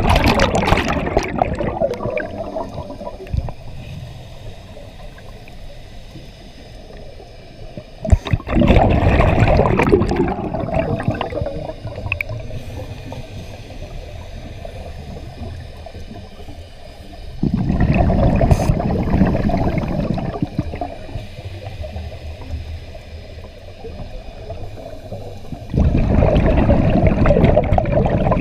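Scuba diver breathing underwater: exhaled bubbles rush and gurgle out of the regulator in four long exhalations about eight or nine seconds apart, with quieter stretches between them.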